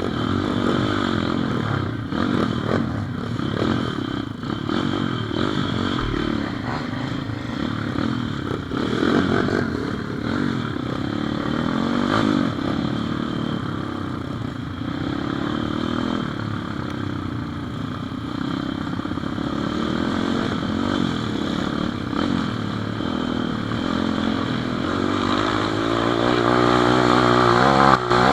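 Pit bike engine running under way, its pitch rising and falling with the throttle, then climbing in the last few seconds.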